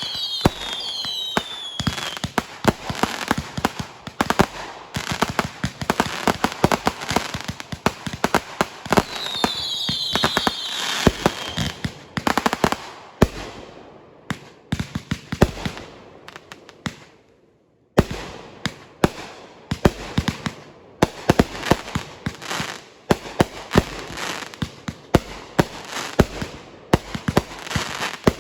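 Fireworks going off in a dense barrage of sharp cracks and pops. Whistling shells give falling whistles near the start and again about ten seconds in. The crackling dies away past the middle, then a fresh barrage starts suddenly.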